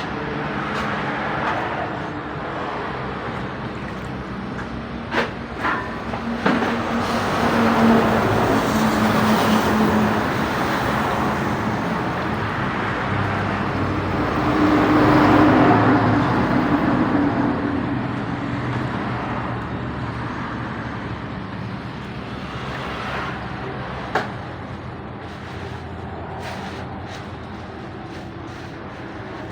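Road traffic: motor vehicle engines running with tyre noise, swelling louder twice as vehicles pass, with a few sharp clicks.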